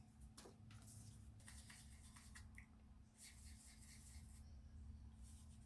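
Near silence: faint room hum with several short, light scratchy rubs, hands handling and swatching an eyeshadow palette.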